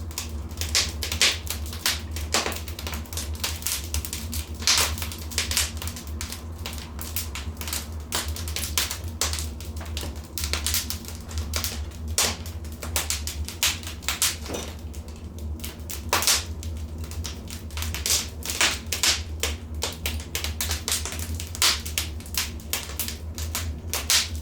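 Fireplace fire crackling: irregular sharp pops and snaps, some louder than others, over a steady low hum.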